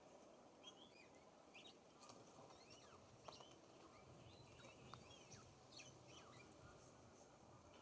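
Faint, scattered chirps and short whistled calls from several small songbirds over a soft outdoor background hiss.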